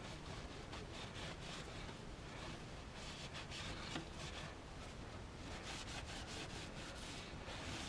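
Faint rag wiping and rubbing over engine parts in repeated short strokes, with a small click about halfway through.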